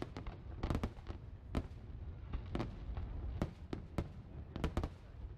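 Fireworks display: aerial shells bursting with sharp bangs at irregular intervals, sometimes several in quick succession, over a steady low rumble.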